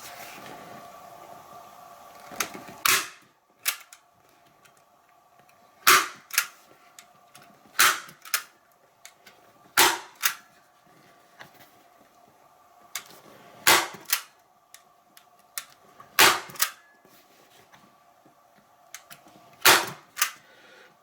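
Arrow T50 manual staple gun firing staples, about seven sharp snaps a few seconds apart, most followed closely by a softer click.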